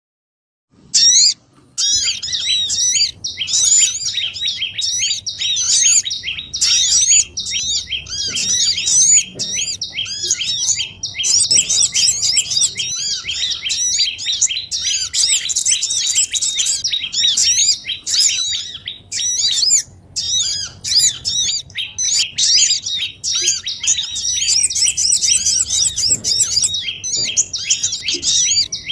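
Small-bird lure recording: a dense, continuous chatter of many overlapping high chirps, repeated arched call notes packed close together, like a noisy flock of small birds such as the sogon. A short burst comes about a second in, then the chatter runs on without a break. It is played to draw wild small birds down to a trap.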